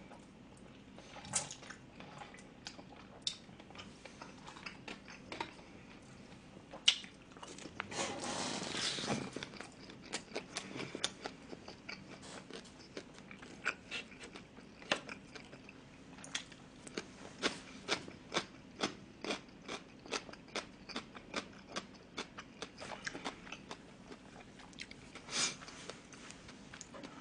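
A person eating jjajang (black-bean sauce) noodles close to the microphone: wet mouth smacks and chewing clicks, several a second through most of the stretch, with a longer, noisier mouthful about eight seconds in.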